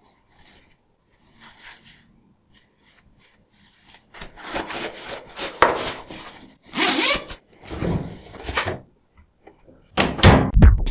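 Irregular rubbing and scraping strokes that start about four seconds in and come and go, loudest around three seconds later. Music with a beat starts near the end.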